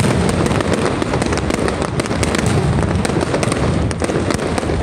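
Aerial fireworks display: a dense barrage of shells bursting in quick succession, a continuous run of overlapping bangs and crackles over a deep rumble.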